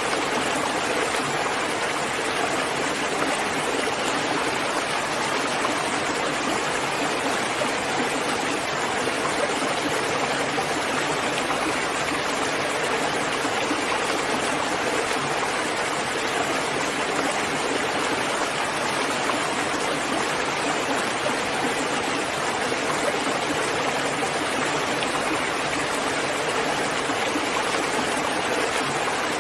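Steady, heavy rain falling as an unbroken, even hiss without separate drops or thunder.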